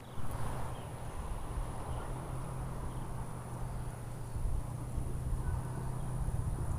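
Outdoor hilltop ambience: wind rumbling on the microphone, with a thin, steady high-pitched insect drone.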